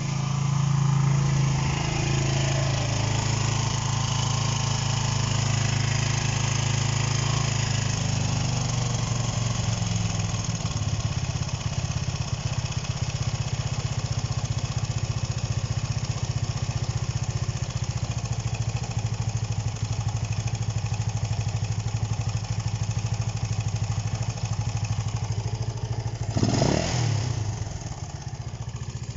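Honda CB125 RS single-cylinder four-stroke engine idling without the choke. It ticks over steadily but is known to stall whenever it is given any throttle, a sign of its flooding and fuel problem. Near the end a brief louder surge rises and falls, and the engine then settles a little quieter.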